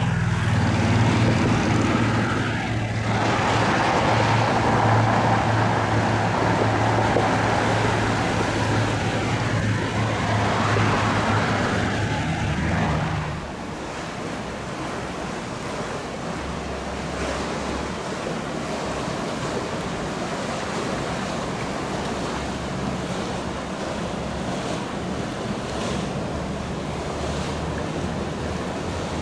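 Powerboat engines running, a steady low drone over water wash and wind noise. About halfway through, the engine sound drops off suddenly, leaving wash, wind and a fainter engine hum.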